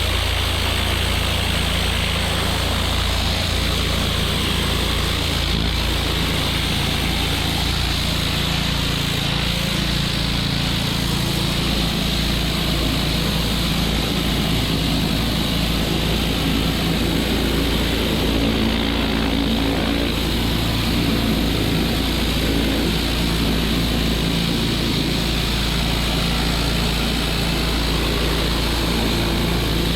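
Pressure washer engine running steadily, with a constant spray hiss.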